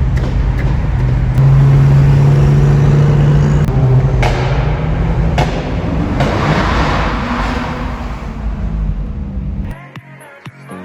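Car engine running under acceleration, its note stepping up and down, with rushing road and wind noise building. Near the end it cuts to electronic dance music.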